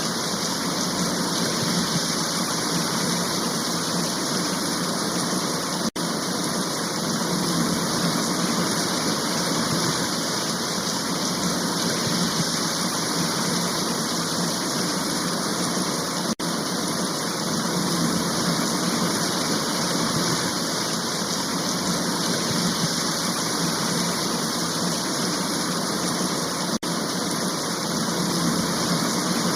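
Steady heavy rain of a downpour, an even hiss without letup. It breaks for an instant three times, about every ten seconds, as the looped recording restarts.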